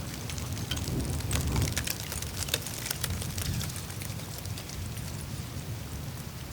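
Melting glacier ice surface: a dense patter of small ticks and crackles over a steady low rumble of meltwater running through the ice. The crackling is thickest in the first half and thins out toward the end.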